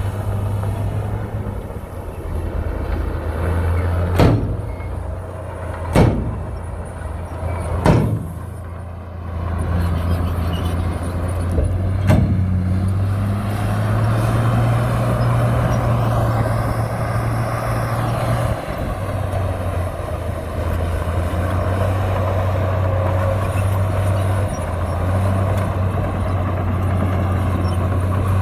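Heavy diesel earthmoving machinery running steadily, with four sharp loud bangs: three about two seconds apart in the first third, and a fourth a few seconds later.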